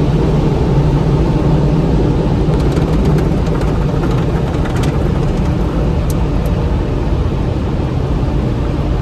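Steady loud roar of an automatic car wash tunnel's machinery, heard from inside the car.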